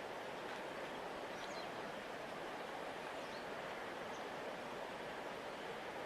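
A large river flowing steadily: an even rushing of water with no breaks. A few short, faint high chirps sound over it.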